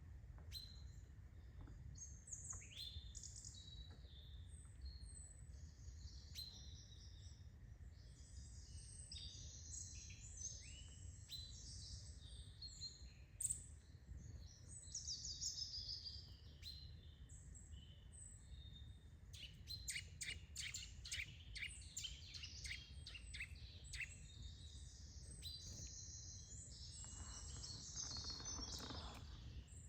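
Small birds chirping and singing, many short high calls overlapping. Past the middle comes a fast run of sharp ticks, about four or five a second, lasting a few seconds, over a low steady background rumble.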